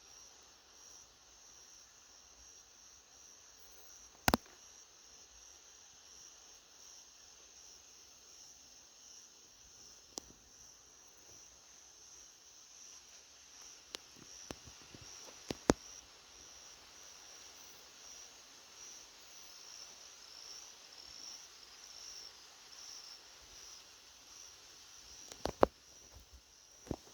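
A steady, high-pitched insect chorus, cricket-like chirring that pulses slightly. A few sharp clicks cut through it, the loudest about four seconds in, others around the middle and near the end.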